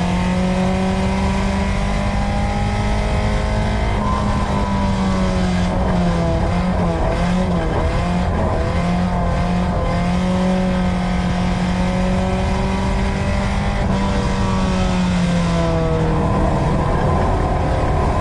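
Four-cylinder engine of a USRA Tuner dirt-track race car heard from inside the car, running at a steady pitch. The pitch wavers up and down for a few seconds in the middle and sags a little near the end, over constant tyre and chassis noise.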